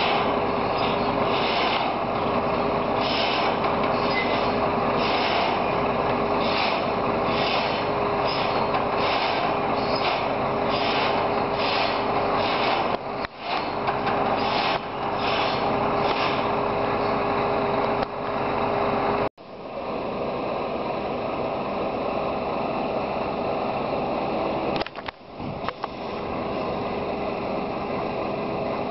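Steady machinery running at a truck being loaded from a silo: a continuous roar with a steady hum and regular high-pitched clicking about twice a second. About two-thirds of the way through it cuts off abruptly and gives way to a similar but duller steady roar.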